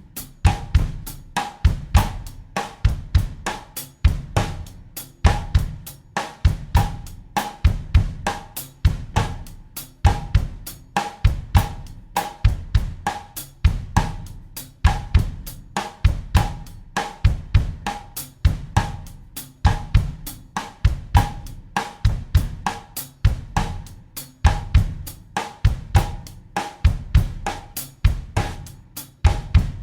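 Acoustic drum kit playing a bossa nova groove at 100 BPM in 4/4: steady hi-hat or cymbal strokes over a bass drum pattern, with a repeating cross-stick knock on the snare rim.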